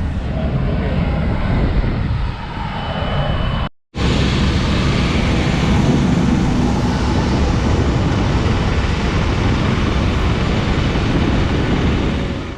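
Jet airliner engines running steadily, a loud dense noise heaviest in the low end. The sound cuts out for a moment about four seconds in, then resumes.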